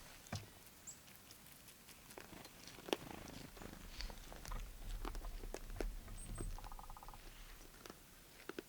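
Young deer chewing corn: scattered crunches and clicks, with a low rumble about halfway through.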